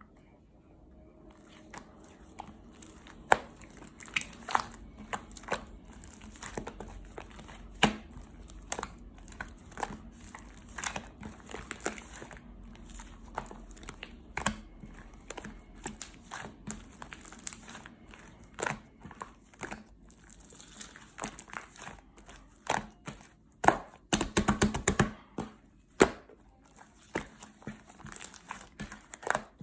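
Slime being squeezed and stretched by hand: an irregular run of sticky clicks, pops and crinkles, with a quick burst of rapid pops about 24 seconds in.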